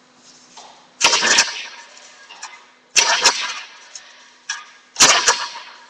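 Recoil pull-starter on a Baja Doodle Bug mini bike's small engine pulled three times, about two seconds apart, each pull a short burst of cranking that doesn't catch. The cold engine won't start, which the owner thinks may be because it is low on gas.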